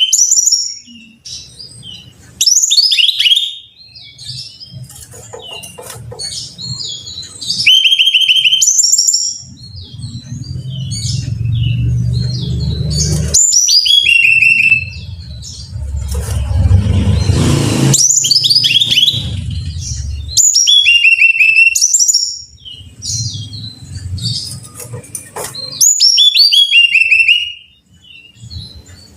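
Brown-chested jungle flycatcher singing: short, bright, high phrases of quick descending notes, repeated every second or two. A low rumble sits under the song through the middle, swelling with a hiss about two-thirds of the way in.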